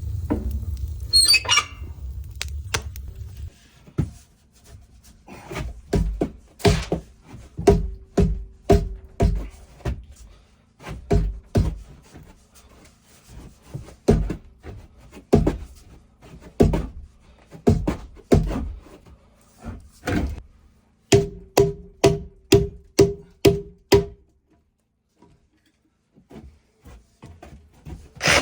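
Hammer blows driving nails into timber framing, in runs of quick strikes broken by short pauses; some blows ring with a short metallic tone.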